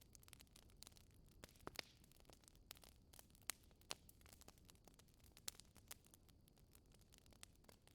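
Fireplace fire crackling softly: a steady run of small crackles with a few sharper pops, the loudest around two, three and a half, four and five and a half seconds in.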